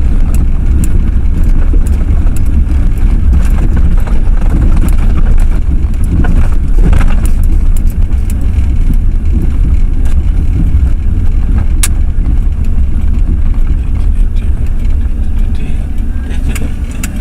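Inside the cab of a Ford F-350 pickup driving over a rough, broken road: a loud, steady low rumble with a few sharp knocks and rattles, one about a second in, a cluster around six to seven seconds, one near twelve seconds and several near the end.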